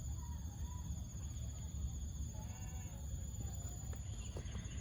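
Outdoor nature ambience: a steady high-pitched trill over a low rumble, with faint, brief calls about two and a half seconds in.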